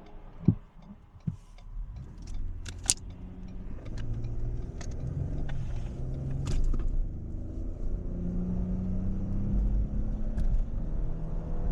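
Ford 3.5 EcoBoost twin-turbo V6 of a 2016 Ford Expedition accelerating hard, heard from inside the cabin: engine and road noise build steadily louder and climb in pitch from about three seconds in. A few sharp clicks come in the first three seconds.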